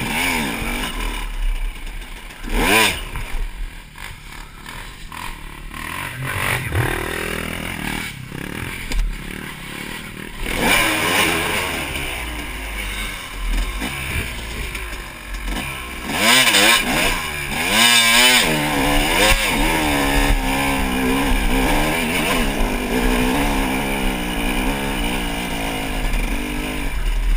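250cc two-stroke dirt bike engine revving up and down under the rider's throttle, with a quieter, lower-revving stretch in the first third and repeated sharp revs through the second half.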